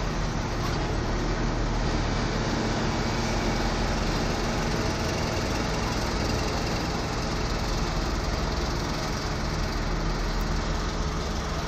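Diesel locomotive engine running steadily, heard from inside the cab: a constant low drone with the rumble of the moving train.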